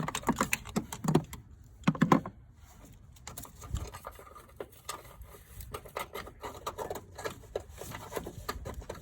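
Battery hold-down bracket being worked off its hook by hand: a run of irregular clunks, clicks and rattles, the loudest knocks in the first two seconds, then lighter clicking.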